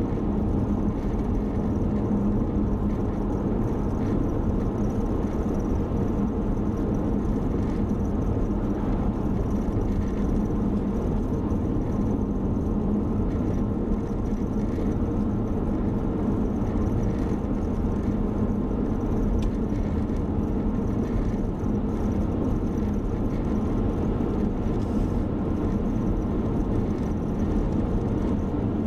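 Car driving steadily on the road: a constant low hum of engine and tyre noise with no change in pace.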